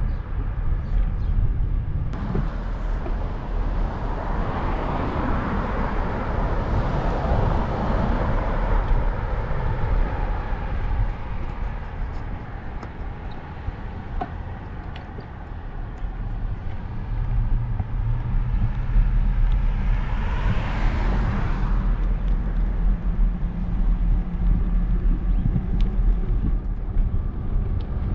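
Cars passing on the road: one long swell of tyre and engine noise from about two to ten seconds in, and a shorter one around twenty seconds. A steady low rumble of wind on the microphone of the moving bike's camera runs underneath.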